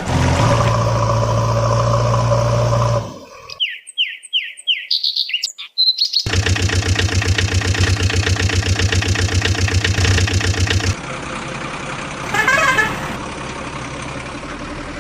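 Electronic engine sound effects from battery-operated toy vehicles: a steady hum, then a short run of falling chirps, then a fast pulsing engine sound that drops to a quieter hum with a brief warble near the end, with abrupt cuts between parts.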